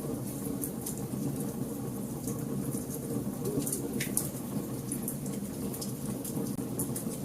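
Wood fire burning in a fireplace: a steady low rush of flame with frequent sharp crackles and pops, several a second.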